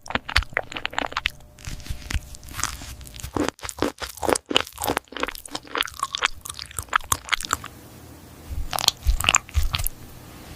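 A cat eating crunchy food: rapid crunches and bites, with a short pause about three-quarters of the way through before the crunching starts again.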